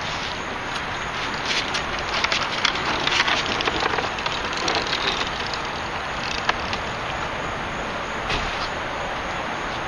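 Homemade wooden kayak cart being rolled on its wheels over pavement: a steady rattling noise full of small clicks, busiest in the first half.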